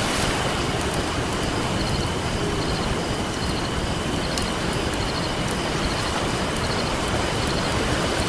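Steady rush of ocean surf mixed with a crackling campfire, with a few sharp pops from the fire. A thin high-pitched tone and faint repeated chirps run beneath it.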